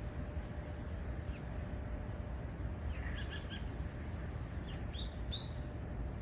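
Wild birds calling in woodland: a short burst of chirps about three seconds in, then two sharper calls near the end, over a steady low rumble.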